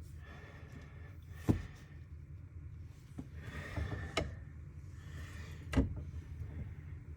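Old plumbing pipe being worked loose and pulled out: faint scraping with three sharp knocks, the first the loudest, as the pipe hits the surrounding framing.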